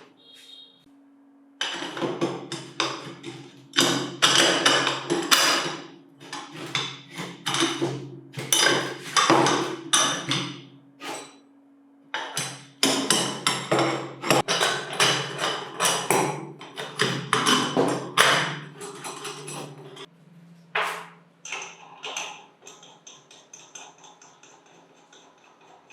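Repeated hammer blows on metal, an irregular series of sharp strikes with a short ring after each, over a steady low hum that stops about 20 seconds in.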